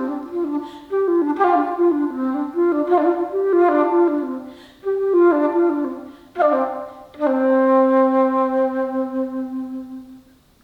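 Solo alto flute playing quick falling runs of notes in short phrases, then one long low held note that fades away near the end.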